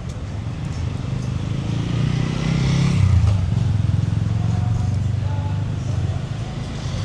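A motor vehicle's engine passing close by on a city street, growing louder to a peak about three seconds in and easing off near the end, with faint voices of passers-by.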